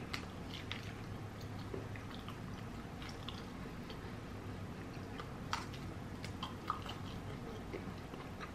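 Close-miked chewing of bone-in fried chicken, with small wet mouth clicks and smacks as meat is bitten and pulled off the bone by hand. The clicks are scattered throughout, with two sharper ones a little past the middle.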